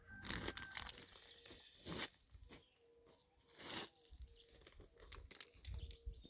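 Dry birdseed rustling and crunching in a few short bursts while bird feeders are being refilled, with small clicks between.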